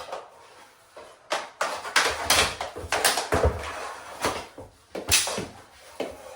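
Plastic mini hockey sticks clacking against each other and a ball during play, with irregular sharp knocks and scuffling between them.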